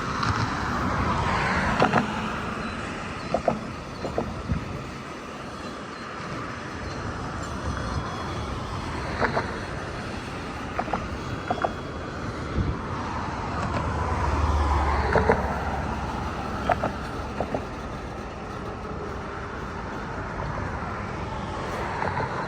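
Steady rumble of a rail yard with scattered sharp metallic knocks and clanks, swelling for a couple of seconds a little past the middle.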